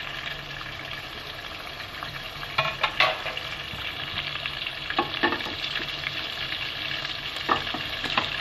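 Chicken kebabs sizzling steadily as they shallow-fry in hot oil over a high flame. A few short sharp clicks and taps come through the sizzle.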